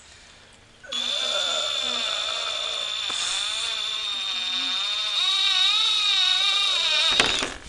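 Power drill running for about six seconds, starting about a second in and cutting off sharply near the end: a steady high motor whine whose lower tones waver as trigger pressure and load change while driving a screw into the fort's wood.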